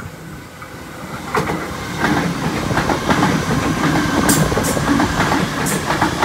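Sydney Trains Waratah (A set) double-deck electric train running through a station without stopping. Its running noise builds over the first two seconds into a steady rumble, with a few sharp wheel clicks about four to six seconds in.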